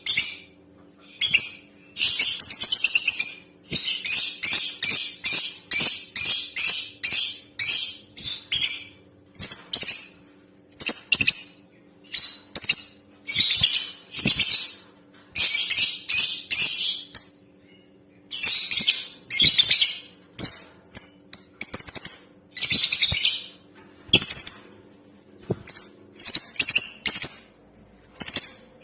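Lovebird calls: fast, shrill, high-pitched chattering in bursts separated by short gaps.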